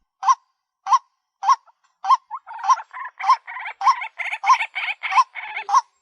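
White-breasted waterhen calling: a short note repeated about every 0.6 seconds, with denser chatter filling in between the notes from about two seconds in until near the end.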